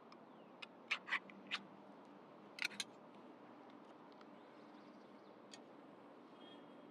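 Kittens moving about in a box while nursing: a handful of short soft clicks and scratches, bunched about a second in and again near three seconds, with one more later, over a faint steady hiss.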